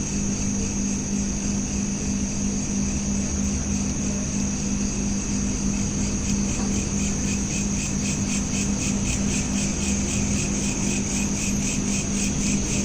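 Crickets trilling steadily at night, with a pulsing chirp joining about halfway through, over a steady low hum.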